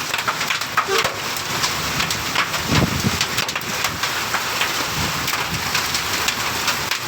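Heavy rain with hail: thumb-sized hailstones clattering in many sharp ticks and knocks over a steady rain hiss, with a dull thump about three seconds in.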